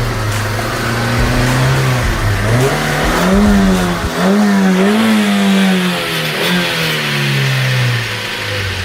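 Car engine revving up and down over and over, its pitch climbing and falling in smooth swells, with a dip about two and a half seconds in and a slow fall near the end.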